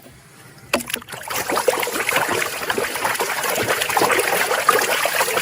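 Running water splashing and trickling as a muddy plastic animal toy is rinsed clean, starting after a click about a second in.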